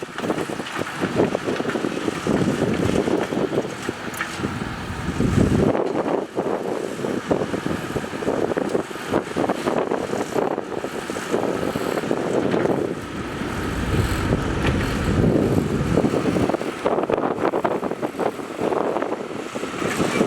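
Heavy diesel earthmoving machinery running, dump truck and bulldozer engines, loud and uneven, with louder low rumbling swells about five and fourteen seconds in.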